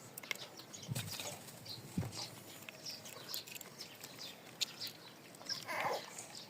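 Parrot making faint short chirps, with scattered small clicks and a brief rustle near the end.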